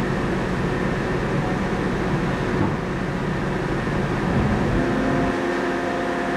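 A tour boat's engine running steadily, heard on board. About five seconds in its note changes as the low rumble drops away and a new, higher steady hum comes in.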